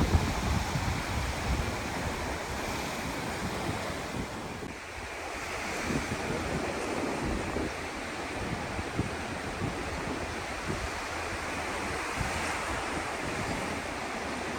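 Sea surf washing onto the beach in an even hiss that eases briefly about five seconds in and then builds again, with wind buffeting the microphone.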